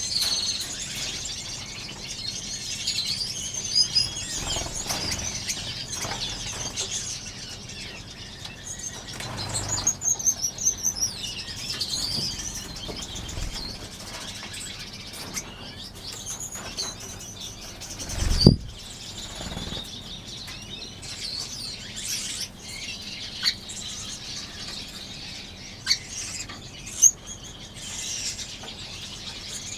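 A flock of small finches in an aviary chirping and twittering, with wings fluttering. A single dull thump about eighteen seconds in is the loudest sound.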